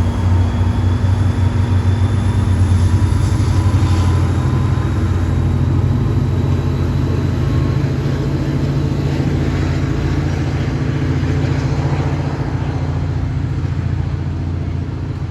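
NJ Transit push-pull passenger train running by, a steady low rumble with a faint whine slowly rising in pitch, easing off near the end.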